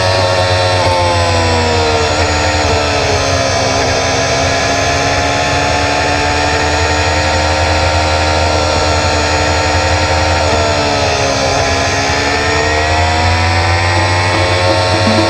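Triumph Street Triple's three-cylinder engine running under way on a ride, its pitch falling as the throttle eases over the first few seconds, holding steady, dipping briefly, then rising again as it accelerates near the end.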